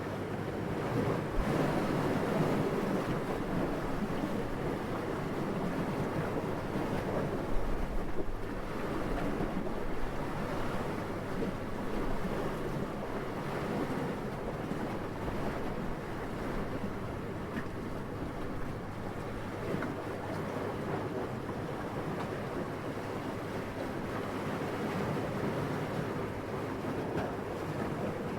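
Steady wind blowing as a soft, even rush, swelling louder in gusts twice in the first third and settling after.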